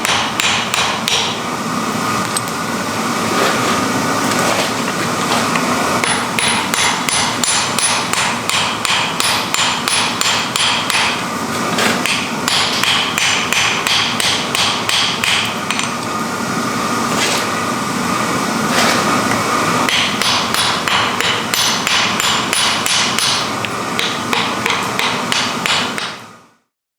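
Steady, rapid hammer blows on iron while forging, about four strikes a second, each with a ringing metallic tone. The hammering stops just before the end.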